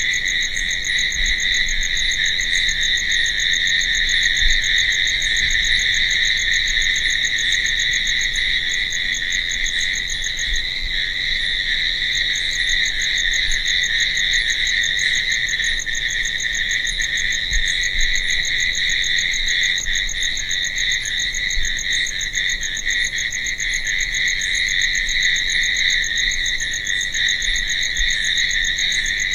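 Crickets chirping in a dense, steady night chorus: a continuous high trill, with a fainter chirp repeating at a regular pace above it.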